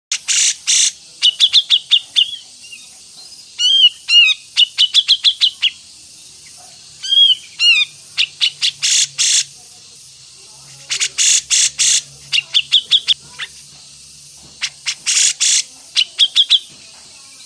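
Songbird singing in repeated phrases: harsh, noisy bursts alternating with quick runs of short high chirps and a few rising whistled notes, with brief pauses between phrases.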